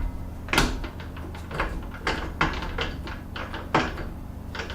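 Milling machine being set up for high spindle speed: a series of sharp metallic clicks and knocks, about ten, irregularly spaced, over a steady low hum.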